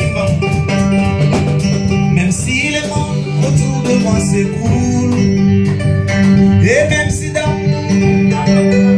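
Live church band playing an instrumental passage with keyboard, bass, guitar and a steady drum beat, with a voice briefly heard a couple of times.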